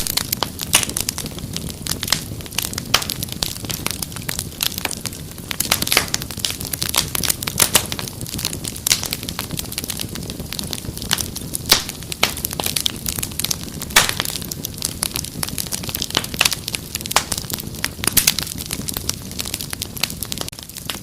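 Wood fire crackling and popping: many sharp, irregular snaps over a low steady rumble of burning.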